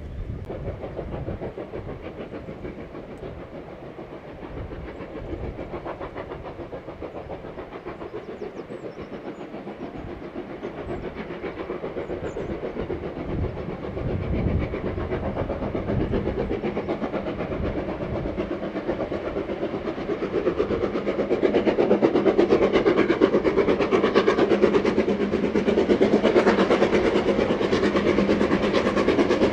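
Steam train drawing near on the line, its sound growing steadily louder, with a rough beat and rail noise building to a loud, dense rumble in the second half.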